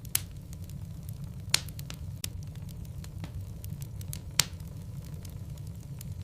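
Wood logs burning in a fireplace: a steady low rumble of flame with frequent sharp crackles and pops, three of them loud, near the start, about a second and a half in, and past four seconds.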